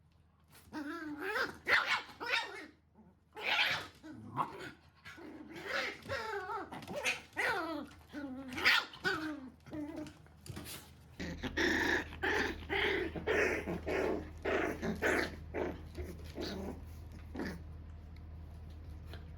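Shiba Inu dogs giving a long string of short growls and barks that bend in pitch, one or two a second, growing quicker and denser about halfway through; it is a mother dog scolding her puppy. A steady low hum comes in partway through.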